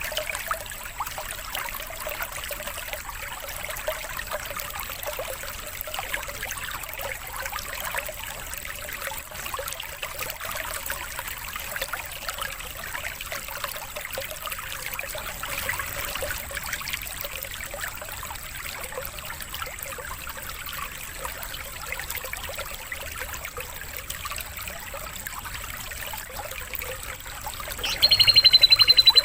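Steady trickling water. About a second before the end, a bird breaks in with a loud, high trilling song.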